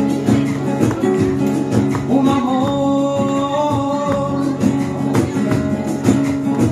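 Rumba flamenca music: guitars strummed in a steady, driving rhythm, with a held melodic line coming in about two seconds in and fading after about four.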